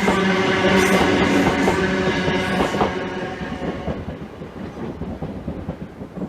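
Class 379 Electrostar electric multiple unit passing at speed, with a steady whine and the clicking of wheels over rail joints. It is loud for about three seconds, then fades as the train moves away.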